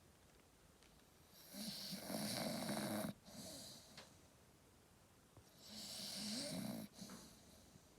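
Staffordshire bull terrier snoring in its sleep: two long snores about four seconds apart, each cutting off sharply.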